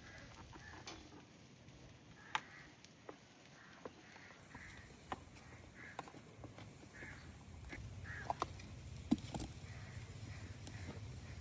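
Faint scattered clicks and knocks, with short repeated animal calls in the background and a low rumble growing louder near the end.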